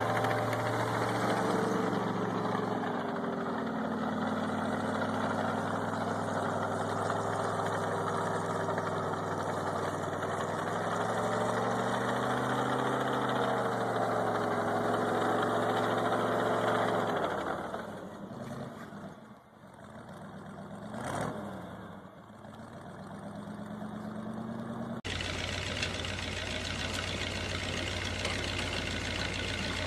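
A vehicle engine running steadily, its pitch rising and falling slightly, then winding down about two-thirds of the way through. Near the end it cuts abruptly to a steady hiss with a low hum.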